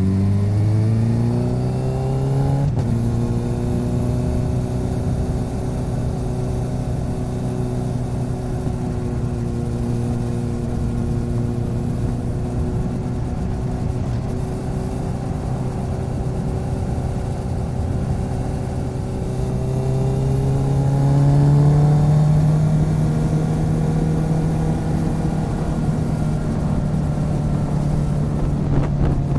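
Motorcycle engine under way: the revs climb over the first couple of seconds, then hold a steady cruising note, rise again about twenty seconds in and settle, over a constant rush of wind and road noise.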